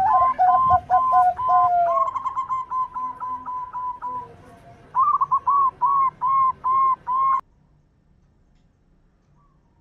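Zebra doves (perkutut) cooing: overlapping series of short staccato coo notes at first, then a quick run of short notes, then five loud separate 'kung' notes. The song cuts off suddenly about seven seconds in.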